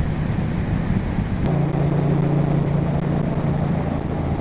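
Ducati Multistrada 1200S engine running at a steady cruise under wind rush, heard from inside a helmet with the visor cracked open. About a second and a half in, the engine note settles into a firmer, steadier hum.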